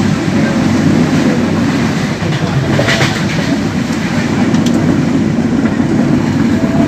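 Passenger train running along the track with a steady low rumble, and a brief louder rattle about three seconds in.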